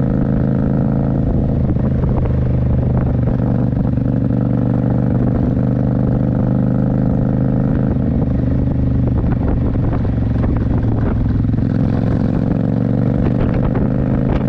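Motorcycle engine running at a steady speed while being ridden, its pitch holding nearly constant.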